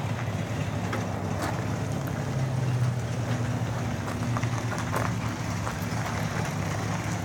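1956 Dodge Coronet's polyspherical-head ("poly") V8 idling steadily while warming up. The engine note swells briefly about two and a half seconds in.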